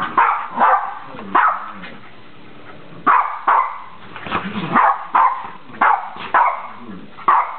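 Dogs barking in play: about a dozen sharp barks, with a pause of about a second shortly after the start.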